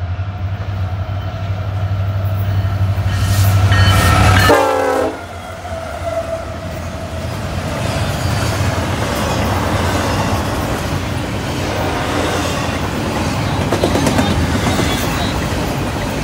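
Diesel freight locomotive approaching, its low engine rumble building and then dropping in pitch as it passes about four and a half seconds in. After that comes the steady rattle and rumble of double-stack container well cars rolling by on the track.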